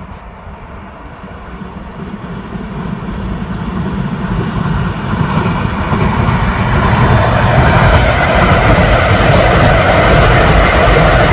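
Train running on the rails, a rumble with hiss above it that grows louder over the first several seconds and then holds steady.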